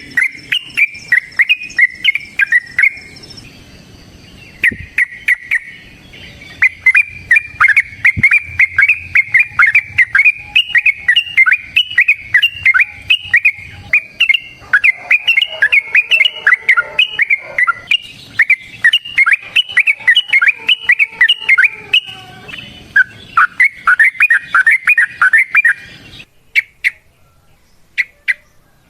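Yellow-vented bulbul singing long, fast runs of rapidly repeated chirping notes, breaking off briefly about four seconds in and stopping near the end, where only a few scattered notes remain.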